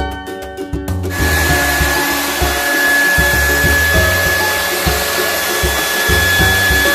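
A steady rush of air from a small electric motor, with a thin high whine, cuts in about a second in over upbeat Latin background music.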